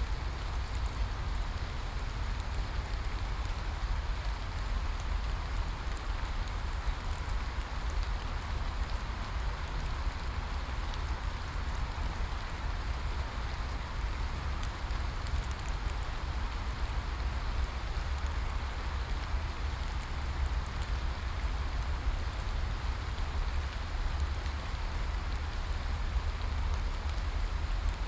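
Steady rain falling, an even hiss with faint scattered drop ticks and a constant deep rumble underneath.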